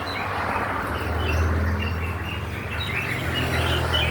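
Many small birds chirping in a dense, overlapping chorus of short high calls, over a steady low hum.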